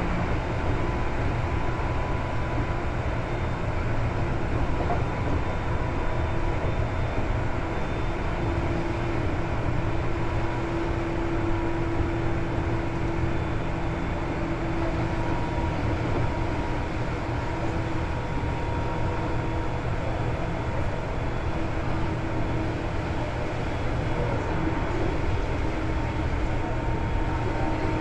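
Seibu 2000 series electric train running, heard from inside the passenger car: a steady rumble of wheels on rail, with a faint motor and gear hum that strengthens and fades a little.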